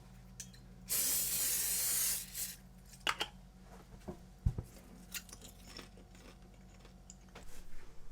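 A hiss lasting about a second, like a spray, starting about a second in. It is followed by scattered light clicks and taps over a faint steady low hum.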